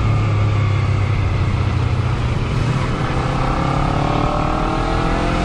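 Motorcycle engine running at road speed under wind rush that is partly damped by a foam camera cover; about halfway through the engine note starts rising as it accelerates.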